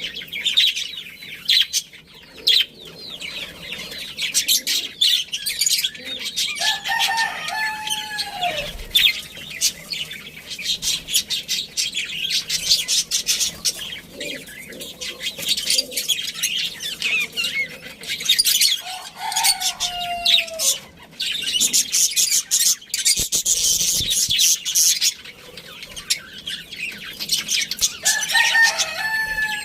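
Budgerigars chattering and chirping continuously. A rooster crows three times over them, each crow about two seconds long and dropping in pitch at the end.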